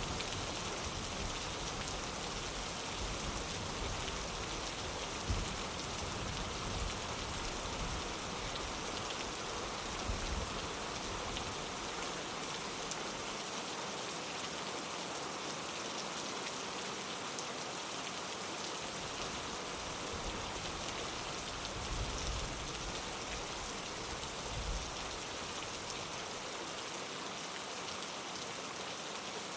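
Steady rain pattering on a window pane, an even hiss, with occasional soft low rumbles and thumps in the first third and again about three-quarters of the way through.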